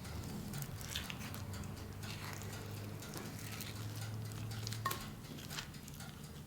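Light, scattered taps and clicks of kitchen things being handled over a low steady hum. The hum stops with a sharper click about five seconds in.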